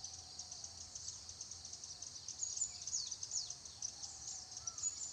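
Small birds chirping and twittering, high and rapid, with several quick down-slurred calls in the second half.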